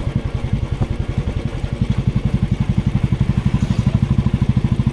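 Motorcycle engine running steadily, its exhaust beat pulsing about ten times a second.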